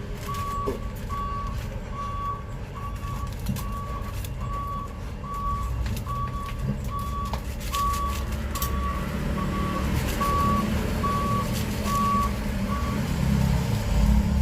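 An electronic beeper sounding one steady tone over and over, about once a second, stopping a little before the end, over the low rumble of a running vehicle engine that grows louder near the end.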